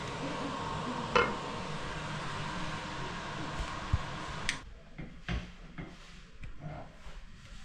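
A steady hiss cuts off abruptly about halfway through. Light clinks and knocks of cooking utensils against pots and dishes follow.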